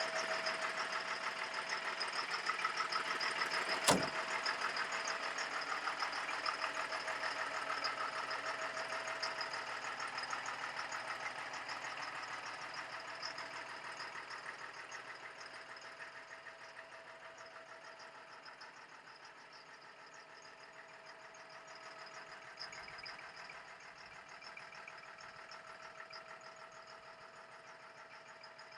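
Caterpillar 3116 turbo diesel of an M1078 LMTV cargo truck running at a steady speed with a fast, even clatter. There is a single sharp click about four seconds in, and the engine grows fainter through the middle of the clip.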